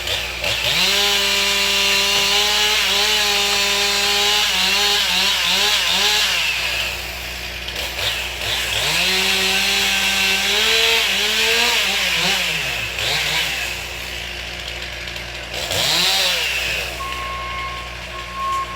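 Chainsaw running in two long stretches of cutting wood with a short rev near the end, its engine pitch dipping and rising as it bogs under load.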